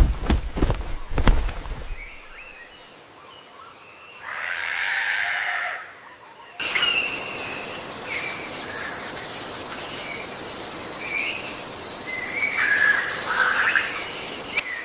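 Birds in a rainforest soundscape: scattered short chirps over a steady background hiss, with a few sharp knocks in the first two seconds and a louder raspy sound lasting about two seconds around four seconds in. The background hiss jumps up abruptly a little after six seconds.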